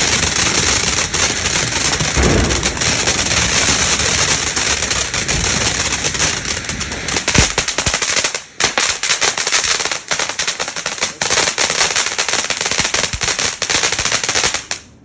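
Ground fountain firework burning: a steady hiss thick with fast crackling, dipping briefly about eight seconds in and cutting off suddenly near the end as it burns out.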